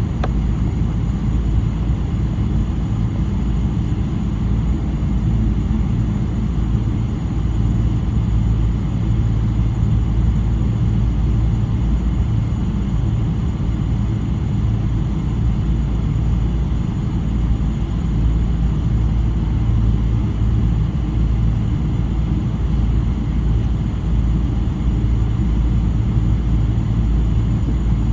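Steady low rumble inside the cabin of a Boeing 777-300 with its Rolls-Royce Trent 800 engines running, holding even with no rise or fall.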